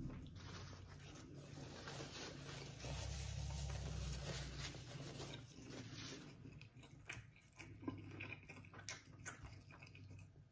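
A person chewing a juice-dipped Chicago-style Italian beef sandwich close to a lapel mic: soft, wet mouth clicks and smacks, with a low hum under them.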